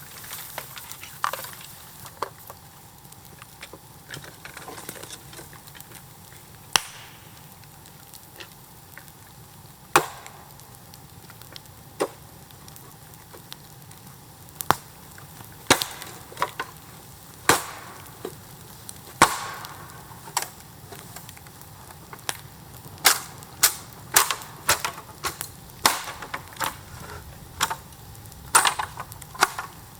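Bamboo cracking and popping in a bonfire: sharp, irregular cracks, scattered at first and coming quickly one after another near the end.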